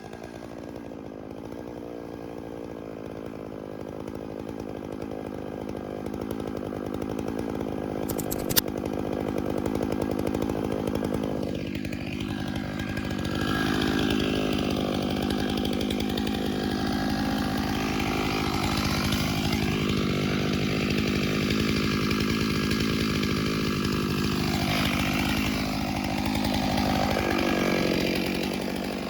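Chainsaw running and cutting into the trunk of a large spruce for the felling cut. The engine pitch dips and recovers as the chain loads in the wood, and the saw gets louder from about halfway. There is a single sharp tick about eight seconds in.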